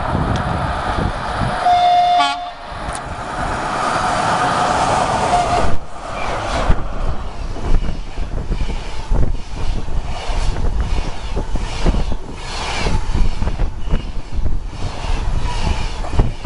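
ChS6 electric locomotive sounding its horn in greeting as it approaches at speed, in long blasts with a short break. About six seconds in, the locomotive and its passenger coaches rush past with a rapid clatter of wheels over the rail joints.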